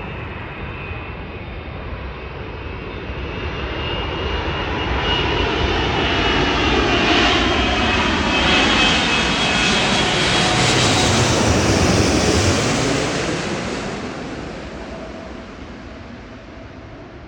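Airbus A380's four jet engines as the airliner comes in to land and passes by: a rushing roar with whining tones that builds to its loudest about ten seconds in, the tones sliding down in pitch as it goes past, then fading away.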